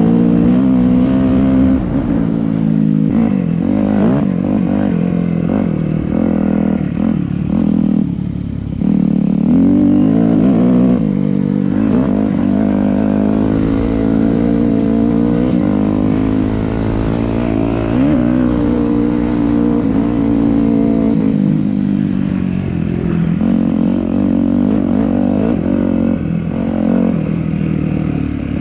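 Yamaha YZ250F dirt bike's four-stroke single-cylinder engine being ridden hard, its pitch climbing and falling over and over as the throttle opens and closes and it shifts, with a brief throttle-off about eight seconds in.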